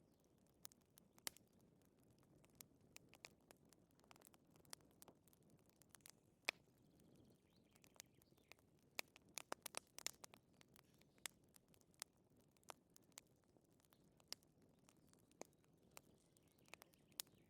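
Wood fire crackling faintly: scattered, irregular sharp pops and snaps over a low hiss, thickest in a brief flurry about halfway through.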